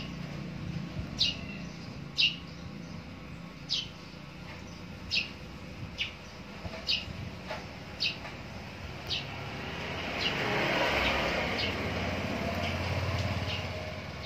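A small bird chirping: about a dozen short, high single chirps, roughly one a second and unevenly spaced. About ten seconds in, a vehicle passes, a swelling rush of noise with a low engine hum.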